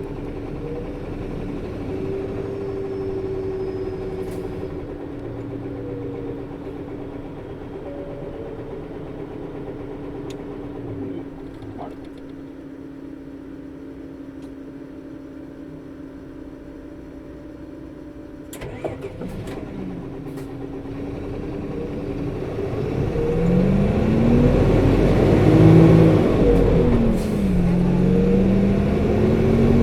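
A 2008 Toei city bus (PKG-RA274KAN) heard from inside. Its diesel engine and engaged cooling coupling fan hum steadily while the bus stands; the fan is unusually loud for the engine speed on this bus. A clunk comes about 19 s in, then the engine revs up as the bus pulls away, its pitch rising, dropping at a gear change and rising again near the end.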